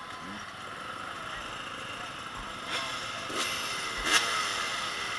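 Motocross bikes running on the track some way off, their engines rising and falling in pitch as they rev and pass. There are short thumps about three, three and a half and four seconds in, the last the loudest.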